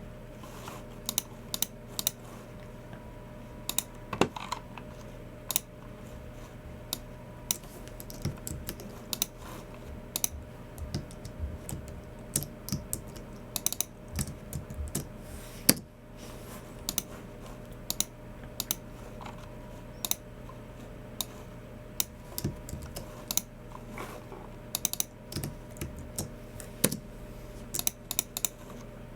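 Typing on a Logitech MX Keys Mini's low-profile scissor-switch keys: irregular runs of quick keystrokes with short pauses, one stroke near the middle louder than the rest. A steady low hum runs underneath.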